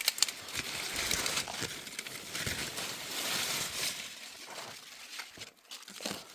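Dry rustling and crackling of leaves and branches being handled, with a couple of sharp snaps near the start; it thins out after about four seconds.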